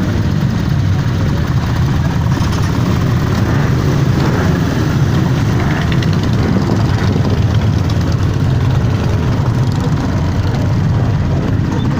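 Motorcycle engines running together in a steady low rumble.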